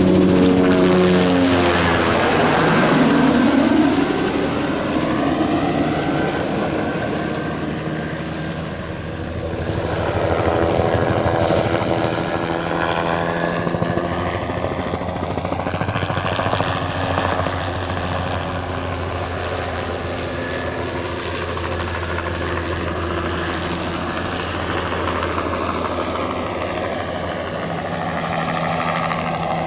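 Light single-engine turbine helicopter flying low on a crop-spraying run: steady rotor beat and turbine whine, with its pitch sliding down as it passes about two to three seconds in, and growing louder again around ten seconds in.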